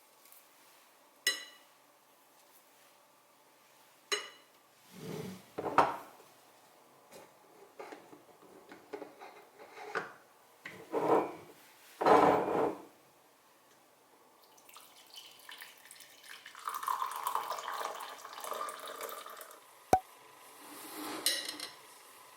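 Kitchenware being handled: two sharp ringing clinks of dishes or glass, then clattering and scraping, and a few seconds of running water later on, ended by a sharp click.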